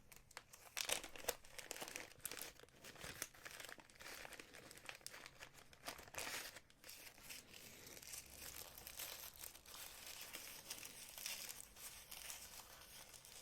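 Faint, irregular crinkling and rustling of packaging being handled and opened to get at a jewelry clasp.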